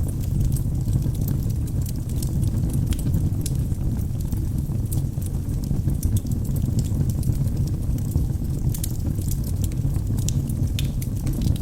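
Wood logs burning in a fireplace: a steady low rumble from the fire, with frequent small crackles and pops scattered throughout.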